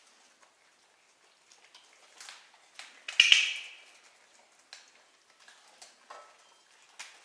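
Wood fire in a fireplace crackling, with irregular clicks and pops and one louder pop about three seconds in.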